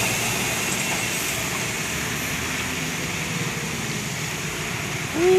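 Steady rumble of road traffic as heavy trucks go by. Near the end a loud pitched tone starts suddenly, rising briefly, holding, then sliding down.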